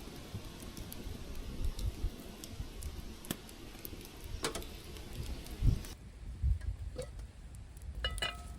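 Light clicks and knocks of camp cookware being handled, with a ringing metallic clink about eight seconds in.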